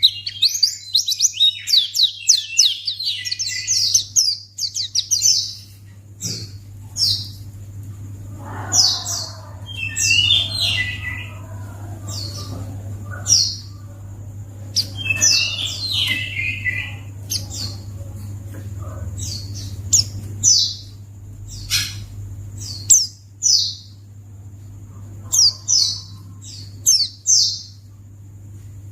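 White-eye (pleci) chirping: many quick, high, downward-sweeping chirps, a dense run in the first few seconds, then separate chirps and short phrases every second or so, over a steady low hum.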